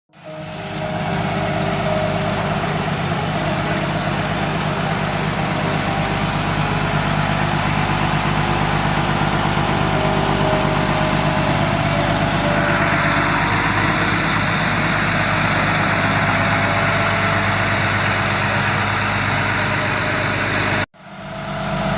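Cummins L10 inline-six diesel of a 1991 Pierce Lance fire engine idling steadily. A little past halfway the higher part of the sound shifts, and near the end the sound cuts off abruptly.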